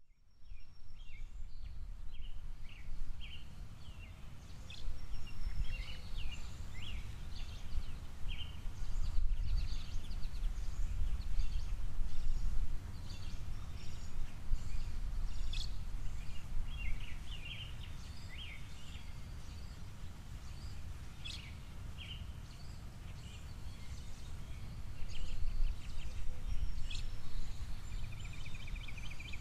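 Small songbirds chirping and calling around a seed feeder, many short overlapping calls, with a quick trill near the end, over a steady low rumble of outdoor background noise.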